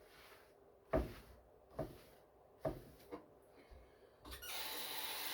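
Five knocks of items or cupboard doors being handled on a kitchen counter, then a tap is turned on about four seconds in and water runs with a steady hiss, for cleaning the cutting surface.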